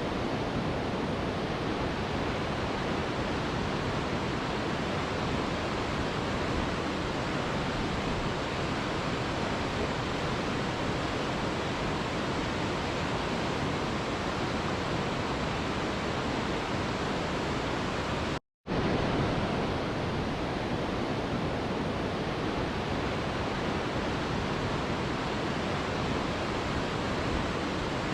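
Mountain river rushing steadily over rocks, a dense even roar of flowing water. It cuts out completely for a split second about two-thirds of the way through, then resumes unchanged.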